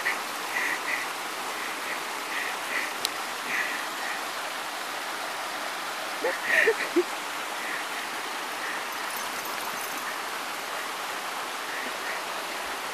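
Mountain stream water running steadily, with a short voice-like sound about six and a half seconds in.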